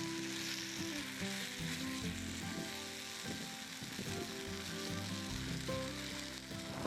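Yakiniku meat sizzling as it fries over the fire, with soft background music of held notes underneath.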